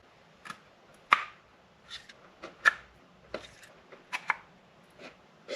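Light, sharp clicks and taps, about ten spread unevenly, from handling GM LS hydraulic roller lifters and their plastic lifter trays while fitting them into the engine block.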